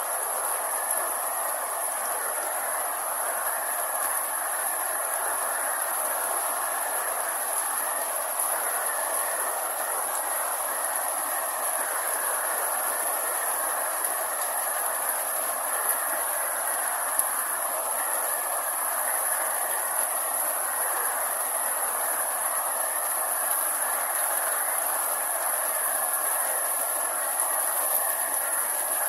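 Steady rainfall, an even hiss that holds unchanged throughout, with a steady high-pitched whine running above it.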